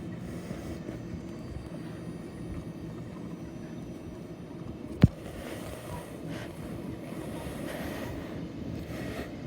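Train running on its rails with a steady low rumble, and one sharp click or knock about five seconds in.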